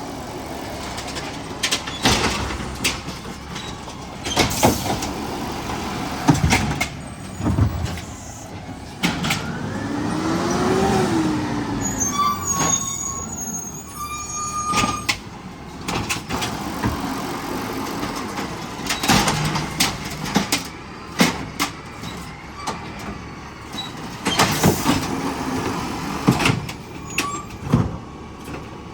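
A garbage truck at work: the engine runs throughout under repeated sharp bangs and knocks. About ten seconds in, a whine rises and falls, followed by a few short steady tones.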